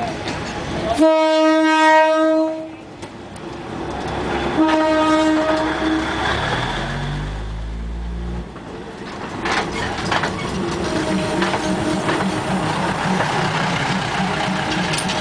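Train horn sounding twice, a long blast about a second in and a shorter one a few seconds later. The engine's low rumble follows, then the carriages clatter past very close by with a steady rhythmic clacking of wheels on rail.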